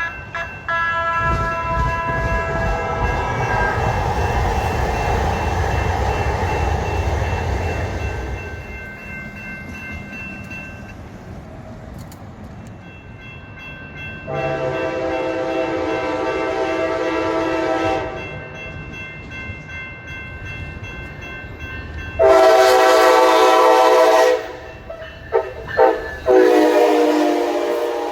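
A passing train rumbles as a multi-chime train horn fades out. Then the horn sounds again in long blasts, about 14 and 22 seconds in, followed by two brief toots and a final long blast near the end.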